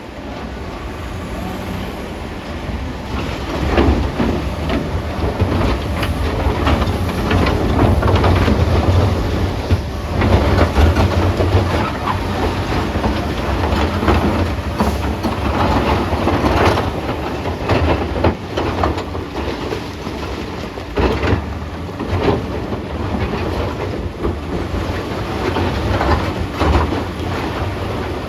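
Caterpillar 966D wheel loader's diesel engine working under load, its rumble swelling and easing, with repeated knocks and clatter of rocks striking the bucket and the steel dump-truck body.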